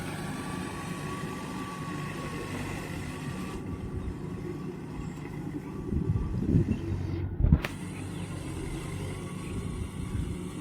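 Mahindra tractor's diesel engine running steadily under a rumbling low drone, with a few louder thumps in the second half.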